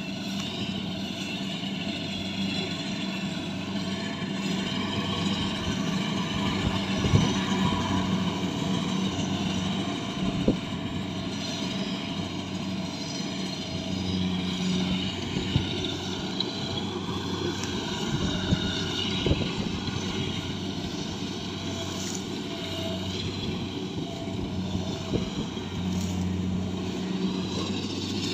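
Rice harvesting machine's engine running steadily, with a wavering mechanical whine over it and a few sharp knocks.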